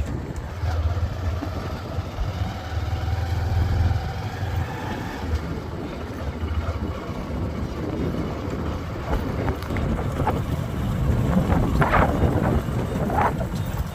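A motor vehicle running, a steady low rumble, with wind noise on the microphone. It gets louder about twelve seconds in.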